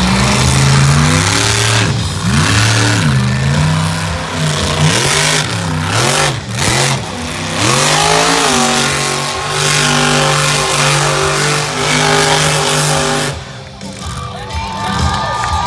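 Monster truck engine revving up and down over and over as the truck spins donuts, then held at high revs for several seconds before dropping off sharply about 13 seconds in.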